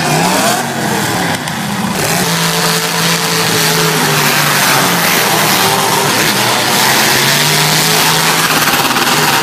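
Several demolition derby cars' engines revving hard, with a dense wash of engine noise and held, droning engine tones. Early on the pitch rises and falls, and the sound changes abruptly about two seconds in.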